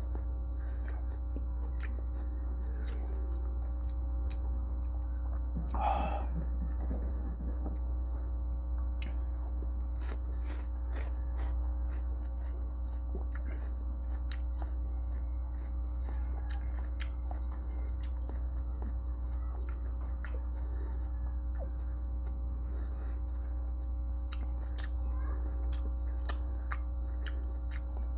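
Close-miked chewing of sour kamias (bilimbi) fruit: small wet mouth clicks and crunches scattered throughout, with one louder mouth sound about six seconds in. A steady low electrical hum runs underneath and is the loudest thing.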